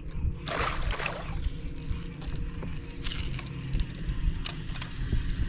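A splash of water about half a second in, then scattered rattling clicks, over a steady low rumble, as a hooked fish is scooped from the water into a fishing boat.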